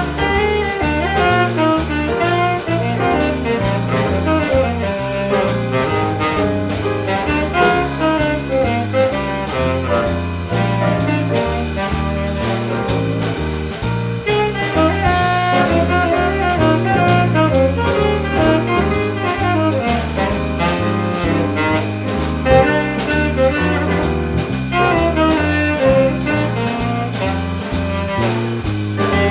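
Small jazz band playing live: a melody over a walking-style bass line and a steady cymbal beat.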